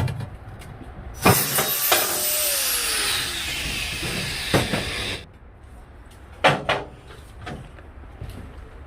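Angle grinder cutting steel for about four seconds, its whine dropping in pitch under load, then cutting off. A few sharp metal knocks follow.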